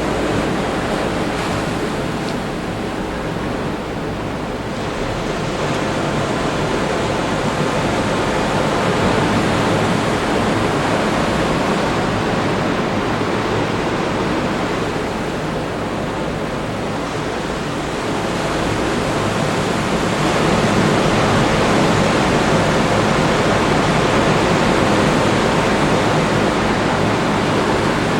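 Atlantic Ocean surf breaking on the beach, heard as a steady wash of noise that slowly swells and eases.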